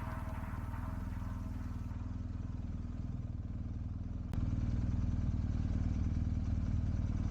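Motorcycle engine running at a steady low rumble, stepping up louder after a sharp click about four seconds in.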